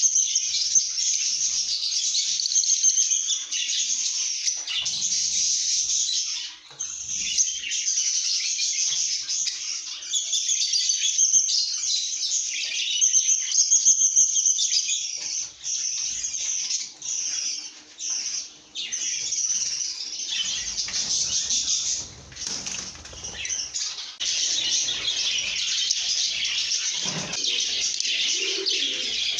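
A flock of lovebirds chattering nonstop in a dense, shrill stream of high chirps and squeaks. A lower call joins in near the end.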